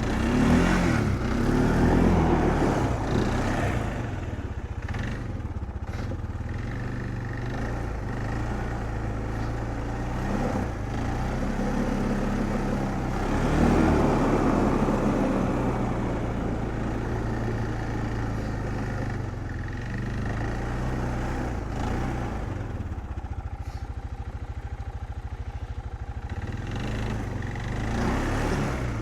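Engine of a four-wheel-drive vehicle running as it drives. It swells in speed about a second in and again around halfway, otherwise running steadily.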